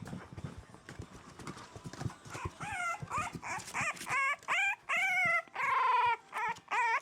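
Four-week-old French Bulldog puppies whining: a run of short, high, wavering cries that start a couple of seconds in and come louder and closer together toward the end, after a stretch of light clicks and taps.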